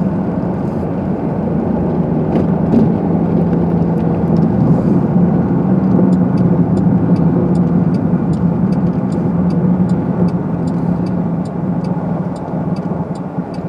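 Steady engine and road noise heard inside a car while driving. From about halfway through, a fast regular ticking of about three clicks a second joins it.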